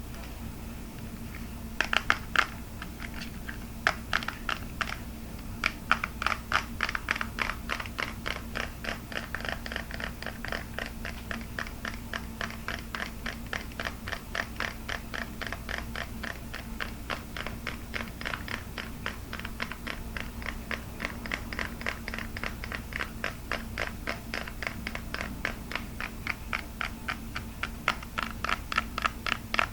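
Fast tapping on hard plastic: a few separate taps at first, then a steady stream of quick taps, several a second.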